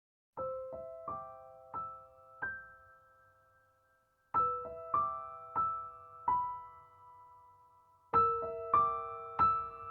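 Gentle solo piano music: three slow phrases of single struck notes, each note ringing and fading before the next, beginning about half a second in.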